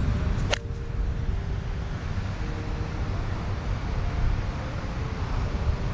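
Steady low rumble of wind buffeting the microphone, with one sharp click about half a second in.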